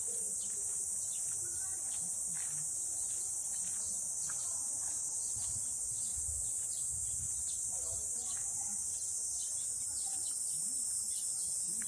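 A chorus of insects shrilling in one steady, high-pitched, unbroken drone.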